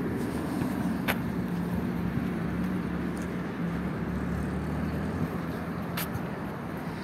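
Car engine running steadily over street traffic noise, the hum fading somewhat in the last seconds. Two sharp clicks stand out, about a second in and near the end.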